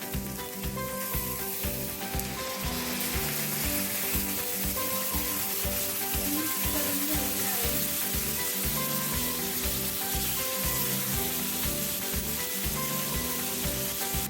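Masala gravy of tomato, coconut and cashew paste sizzling in hot oil in a pan as it is cooked and stirred, the sizzle getting louder about a second in and then holding steady.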